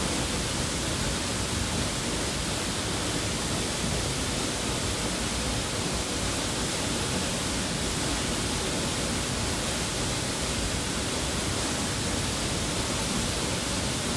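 Nageishi Falls waterfall: falling water making a steady, unbroken rush that holds an even level throughout.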